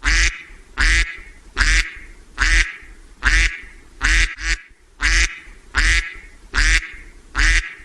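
A duck quacking again and again, about ten loud rasping quacks at an even pace of a little more than one a second.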